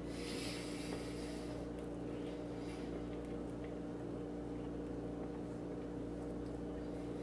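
Steady background hum with a soft hiss during the first second and a half.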